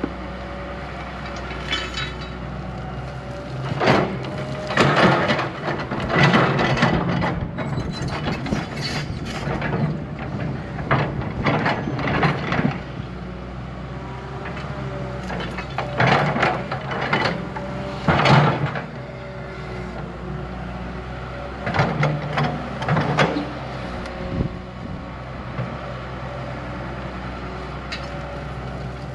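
Heavy diesel earthmoving machine running steadily while working dirt, with repeated bursts of scraping and clattering of steel on soil and stones.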